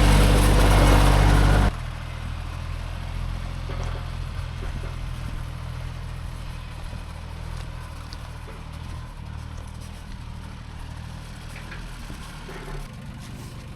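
Motor vehicle engine: loud driving noise that drops away sharply a little under two seconds in, leaving the engine running at a steady low idle.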